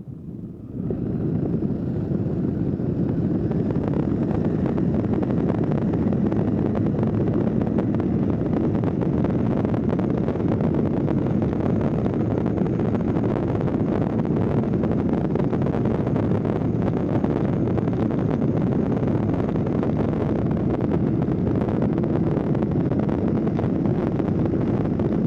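Steady in-flight noise of a light aircraft: its Rotax engine running at cruise power, mixed with airflow buffeting the microphone. It rises in about a second in and then holds level.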